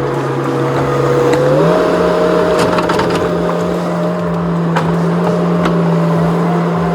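Skid steer engine running under load, its steady hum stepping up in pitch about a second and a half in and holding there, with a few sharp knocks in the middle.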